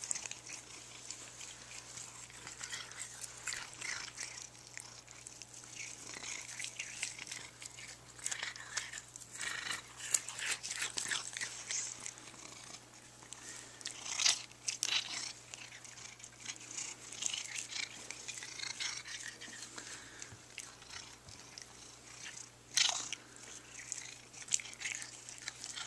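Cat chewing and biting off grass blades: irregular short crunching clicks, some in quick runs.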